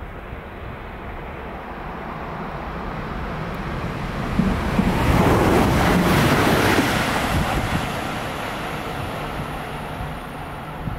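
Red electric passenger train passing beneath a railway overbridge: a rushing noise that builds, is loudest about halfway through, then fades as the train moves away.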